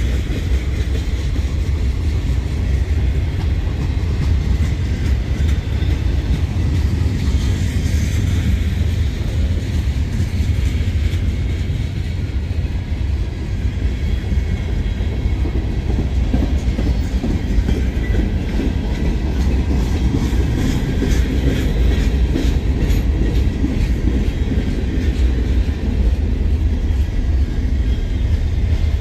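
Steady low rumble of a moving freight train heard from aboard a car, with the wheels clicking over rail joints in the second half.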